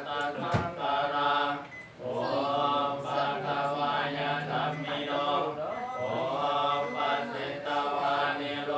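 Buddhist chanting by several voices, a steady drawn-out recitation with only brief pauses for breath. A single sharp click about half a second in.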